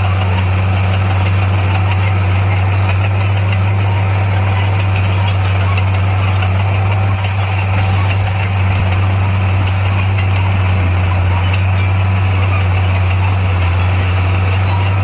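Diesel engine of heavy earthmoving machinery running steadily, a constant low drone.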